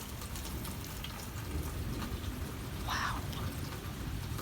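Steady rain falling, a continuous patter with faint individual drops.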